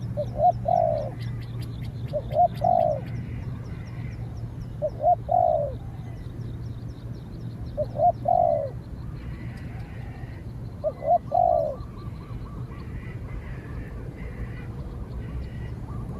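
Spotted dove cooing: five low, two-part coo phrases, each a short note followed by a longer one, repeated about every three seconds. Faint high chirps of small birds sound in the background.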